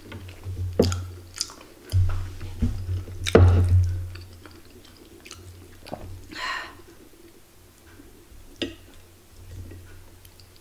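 Close-miked chewing of a person eating a rice meal by hand, with scattered soft mouth clicks and a brief rustle about six seconds in as her fingers gather food from the plate.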